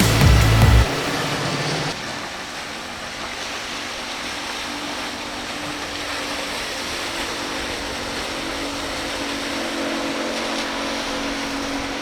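Music with a heavy bass line cuts off about a second in. After it, a boat motor runs with a steady hum over the wash of waves and wind.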